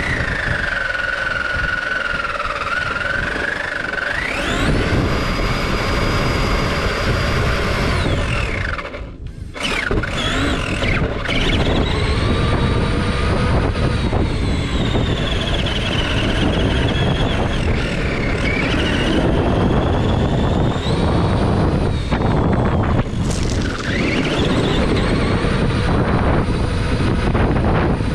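Radio-controlled car being driven, its motor whining up and down in pitch with the throttle over a steady rush of noise, with one brief letup about nine seconds in.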